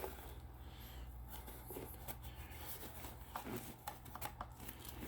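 Faint scattered clicks and rustles of hands handling small objects, over a low steady hum.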